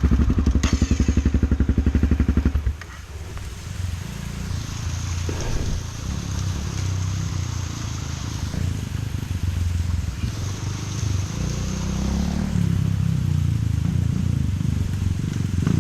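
Trail motorcycle engine running close by with a fast, even pulsing beat, then dropping off sharply about two and a half seconds in to a quieter, uneven engine sound.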